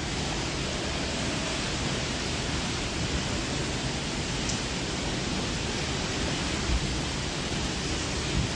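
Storm of heavy rain and strong wind, a steady noise with no let-up.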